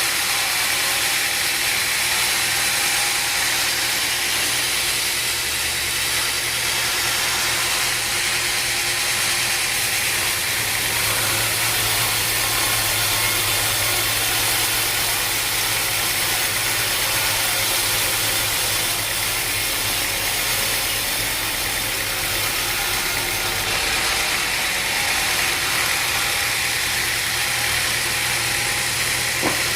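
Sawmill machinery running steadily: a constant engine or motor hum under an even hiss, with one small click near the end.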